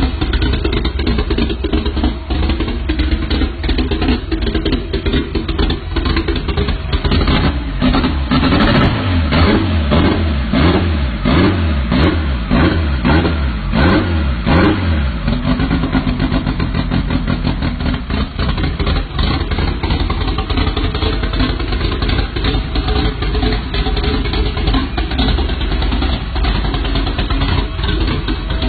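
A vehicle engine with a loud, big-bore aftermarket exhaust running at idle. About a quarter of the way in it is revved in a run of quick throttle blips, roughly one a second, rising and falling. Around halfway it settles back to a steady idle.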